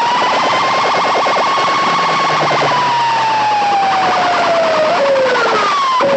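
A siren-style wail played very loud through a large DJ sound system. The tone rises at the start, holds, then slides slowly down, and is followed by two short falling sweeps over a fast rattling pulse.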